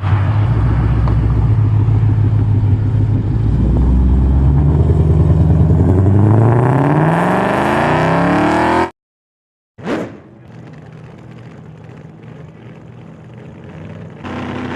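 2016 Mustang GT's 5.0 V8 with Kooks catless longtube headers and an MBRP Race catback, running loud and then accelerating, its pitch rising over about three seconds before it cuts off suddenly. After a short silence comes a brief whoosh, then a quieter steady low sound.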